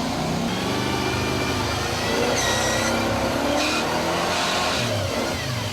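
Off-road truck engine revving and labouring under load, its pitch rising and falling, with a couple of brief high squeals in the middle.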